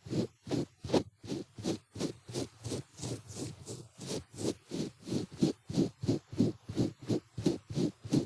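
Ear pick scraping in an ear, close to the microphone: a steady run of short strokes, about four a second.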